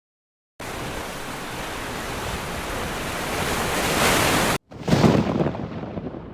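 Heavy rain pours steadily, starting about half a second in and growing slightly louder. After a brief cut-out, a loud thunderclap breaks about five seconds in and rolls off into a fading rumble.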